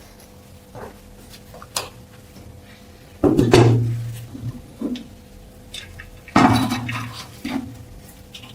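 Small metal parts clinking and knocking on a hard work surface, with two louder clattering knocks about three seconds apart.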